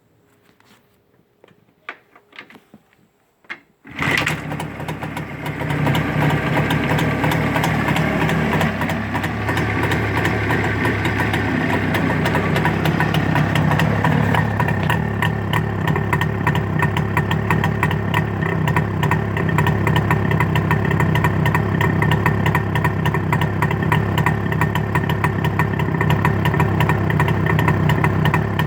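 A Jawa 634's two-stroke parallel-twin engine, freshly rebuilt, catches about four seconds in after a few clicks and knocks, then settles into a steady idle.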